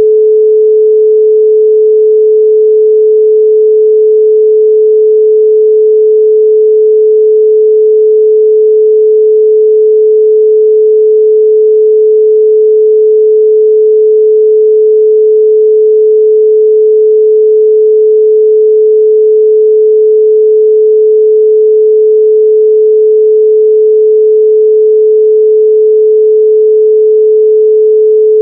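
A steady 432 Hz pure sine tone, one unbroken pitch held without change.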